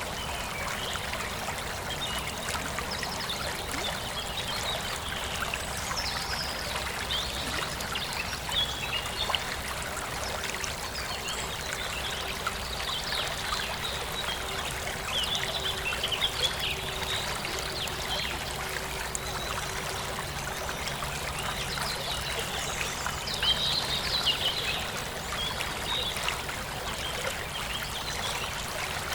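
Forest stream running steadily with a trickling, rushing flow, and birds chirping over it, the chirps busiest about halfway through and again near the end.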